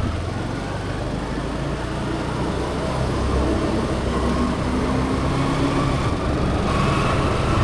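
Steady vehicle and road rumble, with faint held whines and hums coming and going over it.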